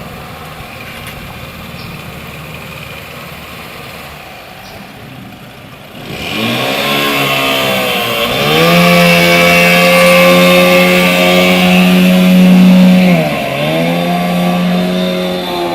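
Boat engine running at low revs, then revving up about six seconds in and held at high revs with a steady whine, easing off briefly near the end before picking up again.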